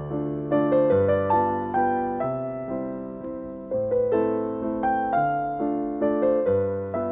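Soft background piano music: gentle notes struck every half second or so over held low bass notes.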